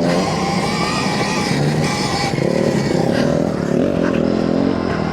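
Stark Varg electric motocross bike under way, its electric motor whining at a pitch that rises and falls with the throttle, over steady riding noise.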